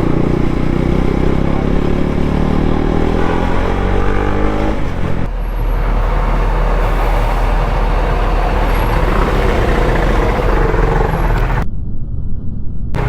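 Motorcycle engine, likely the vlogger's KTM RC 200 single, accelerating with its pitch rising steadily for about five seconds, then giving way to a steady rush of wind and road noise over the engine as the bike rides on.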